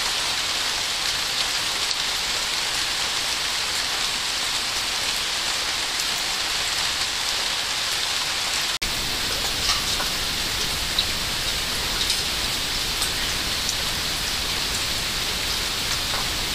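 Steady rain, a constant hiss with scattered drop ticks, broken by a split-second gap about nine seconds in, after which it carries a little more low rumble.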